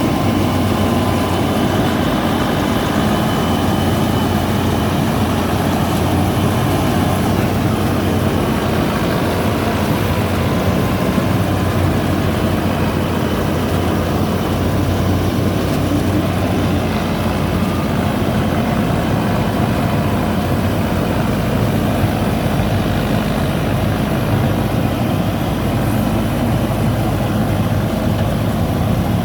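Paddy cutter machine's engine running steadily at an even speed.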